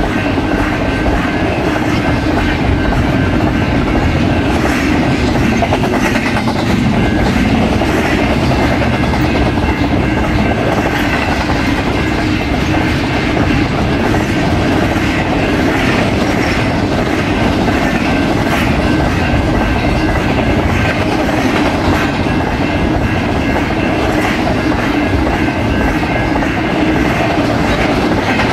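A fast BNSF Z train (priority intermodal freight) passing close by at speed: a loud, steady rush of steel wheels on the rails with a clickety-clack of wheels over rail joints.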